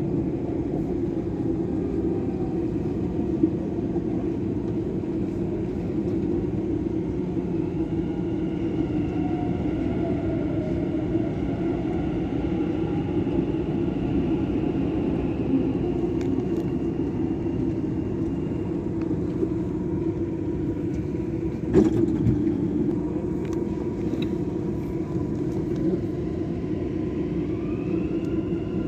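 Dubai Metro train running between stations, heard from inside the carriage: a steady low rumble with a faint electric whine, one sharp knock about two thirds of the way through, and the whine rising in pitch near the end.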